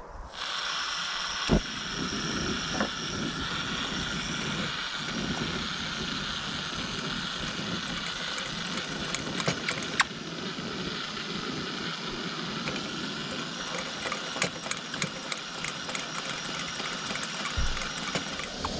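Pressurised white-gas camp stove (Coleman Feather 400) burning with a steady hiss, its fuel vaporised in the generator tube for a strong blue flame. A few sharp clicks sound over it, the loudest about a second and a half in and again about ten seconds in.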